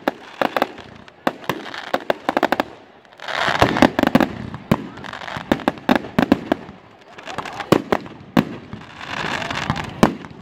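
Fireworks exploding in rapid, uneven bangs, some in quick volleys. Twice, about a third of the way in and again near the end, the bangs give way to a dense crackling swell.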